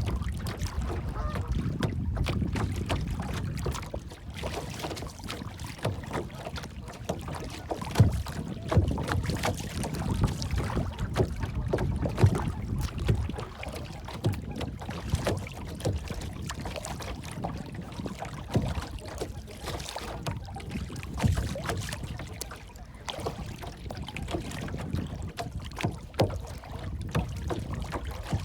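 Water lapping and sloshing with irregular small knocks and splashes, over a low wind rumble on the microphone.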